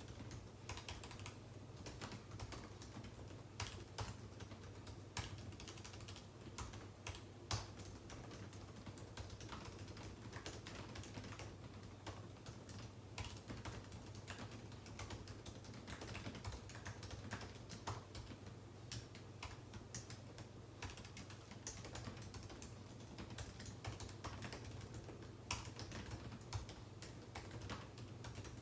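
Typing on a computer keyboard: a quick, irregular run of keystroke clicks, with a few louder key strikes here and there, over a steady low hum.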